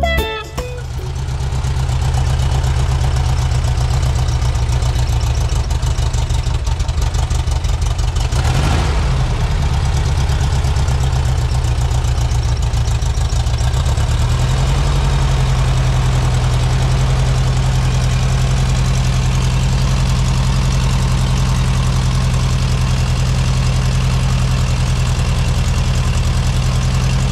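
A 1974 Volkswagen Thing's air-cooled flat-four engine idling steadily, with one brief rev about nine seconds in.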